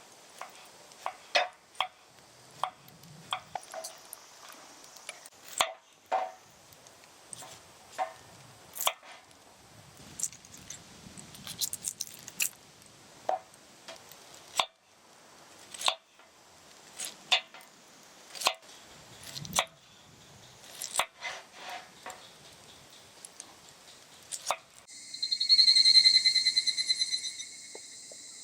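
Sharp, irregular clicks and knocks, roughly one or two a second. About 25 seconds in, an insect starts a loud, pulsing buzz.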